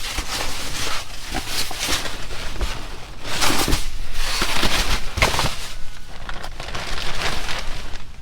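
Irregular rustling and crinkling of trash bags and boxes being rummaged through, in repeated surges with a few light knocks.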